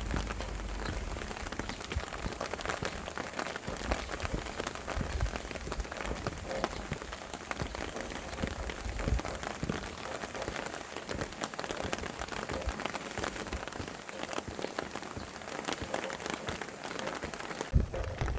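Steady rain falling, with many small drop ticks through a continuous hiss, and low gusts of wind near the start and again near the end.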